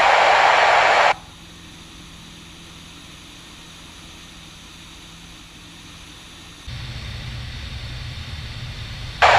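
Aircraft radio static in a light plane's headset audio: a loud rush of hiss lasting about a second at the start and again near the end, with quieter steady hiss and a low hum between. A low rumble joins about two-thirds of the way through.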